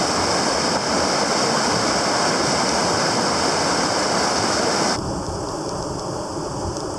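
River rapids rushing: a steady loud hiss of moving water. About five seconds in it cuts abruptly to a quieter, duller rush.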